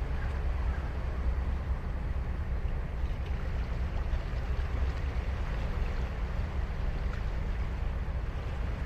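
Ocean surf breaking and washing on a beach: a steady wash of noise with a heavy low rumble underneath.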